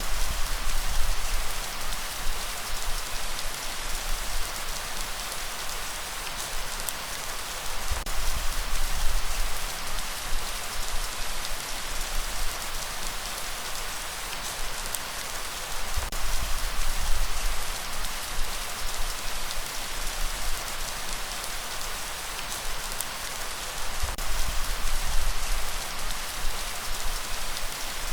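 Steady rain falling, a dense even hiss of drops on a surface, with a low rumble swelling about every eight seconds.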